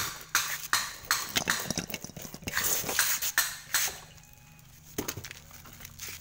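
Irregular metallic clinks and knocks of tools and metal parts being handled while a refrigerator compressor is fitted into place. The knocks are dense for the first few seconds, thin out, and come back a couple of times near the end, over a faint steady low hum.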